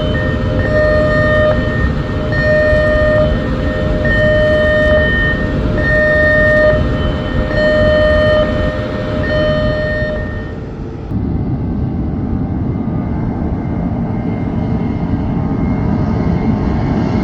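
A pitched, horn-like tone repeating about every second and a half over a steady loud rumble. The tones stop about ten seconds in while the rumble carries on.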